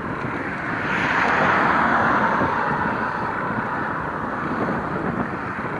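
A road vehicle passing close by, its tyre-and-engine noise swelling about a second in and fading away over the next few seconds, over steady wind noise on the microphone.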